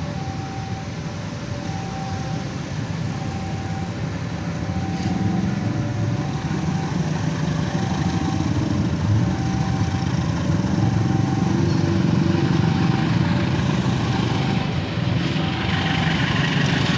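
A train passing with a steady low rumble that grows louder about five seconds in, while a level-crossing warning alarm repeats an alternating two-note chime about once every second and a half.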